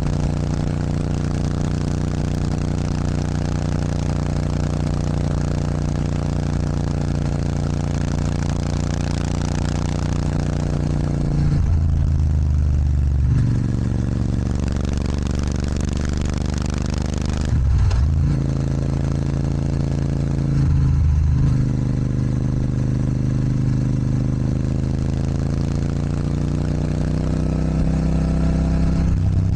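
Royal Enfield Super Meteor 650's 648 cc parallel-twin engine running through a Rhino Racing sports exhaust. The engine note is steady, and its pitch and loudness change briefly three times: once about twelve seconds in, and twice more shortly after.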